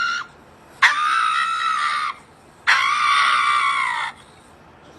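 Two long, high-pitched screams, each held for over a second at a steady pitch that sags slightly at the end, with a short gap between them.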